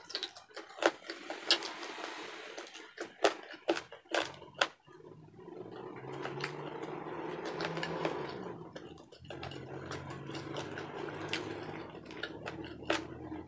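Close-miked eating of pork and chicken adobo by hand: wet chewing with many sharp lip smacks and mouth clicks throughout. A low hum sits underneath from about four seconds in.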